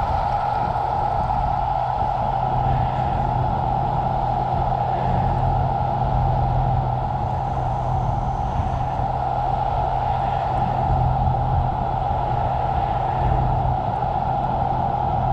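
Steady road noise of a Tesla Cybertruck driving on a snowy highway: continuous tyre and running noise with a constant hum and no distinct events.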